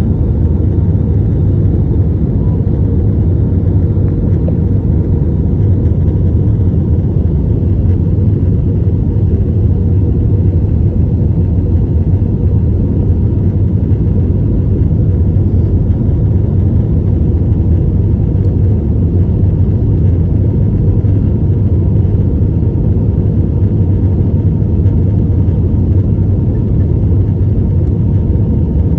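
Airliner cabin noise during landing: a loud, steady low rumble of engines and rushing air, with a faint steady hum above it.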